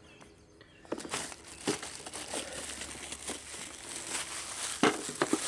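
Plastic packaging crinkling as it is handled and unwrapped, starting about a second in, with scattered small clicks and one sharp knock near the end.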